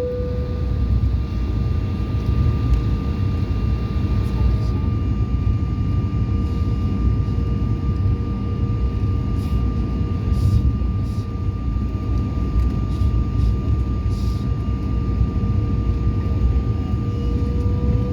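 Airliner cabin noise from a jet's engines: a steady low rumble with a steady engine whine, which rises slightly near the end.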